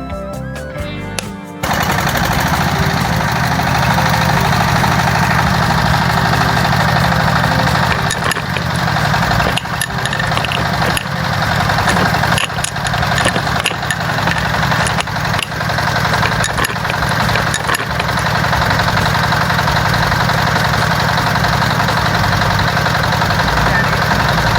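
Music stops about a second and a half in, and a steady engine running sound takes over, with a scatter of clicks and knocks in the middle stretch.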